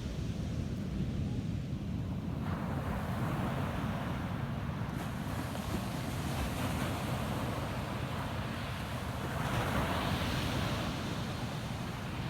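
Ocean waves breaking and washing up a sandy beach: a steady low rumble of surf, with a hissing wash of water that comes in a couple of seconds in and grows loudest near the end.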